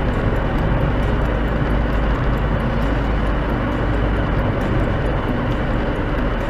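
Steady vehicle driving noise: a continuous low rumble of engine and road with an even hiss over it.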